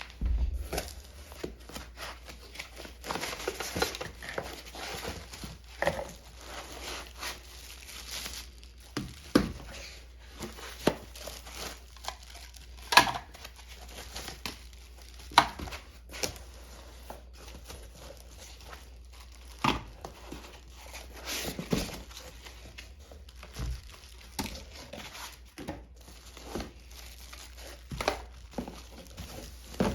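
Plastic and cardboard packaging crinkling and rustling as a cordless stick vacuum is unpacked, with irregular sharp clicks and knocks of its parts being handled.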